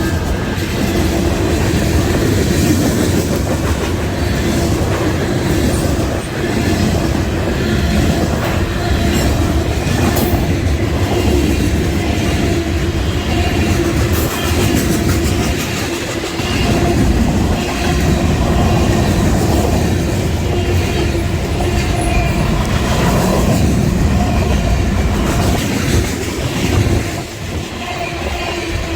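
Union Pacific freight train cars rolling past at speed, a steady loud rumble and clatter of wheels on the rails.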